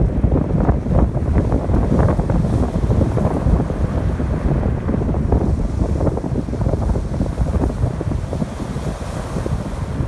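Strong wind buffeting the microphone with a heavy low rumble, over ocean surf washing onto the shore.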